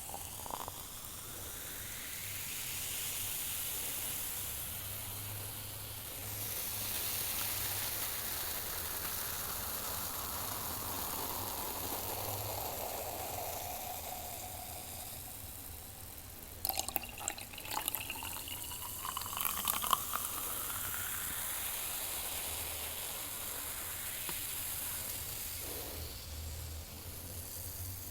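Beer being poured into a glass with a lot of foam: a steady pour whose ringing tone slowly glides as the glass fills, with a short patch of crackling clicks a little past the middle.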